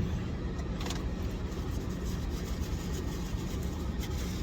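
Steady low rumble of a car idling, heard from inside the cabin, with a couple of faint ticks or rustles.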